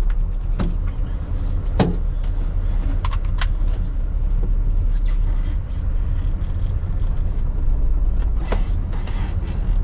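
The 2003 Mitsubishi Fighter dump truck's 7.5 litre diesel engine running with a steady low drone, heard from inside the cab, with a few sharp clicks and knocks over it.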